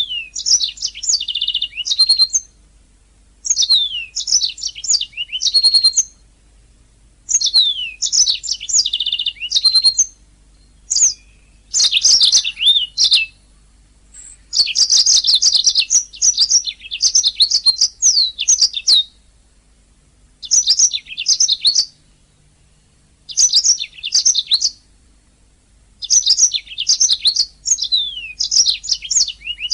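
Domestic canary singing: fast phrases of trills and chirps, each one to four seconds long, with short pauses between them.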